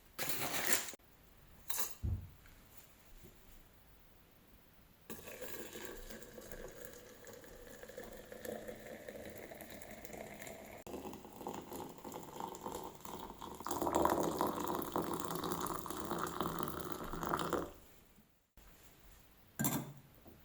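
A couple of light clinks, then liquid pouring into a vessel for about twelve seconds. It gets louder for the last few seconds before it stops.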